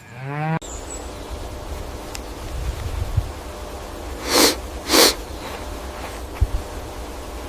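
Calf snorting: two sharp blasts of breath through the nose about half a second apart, over a steady low outdoor rumble.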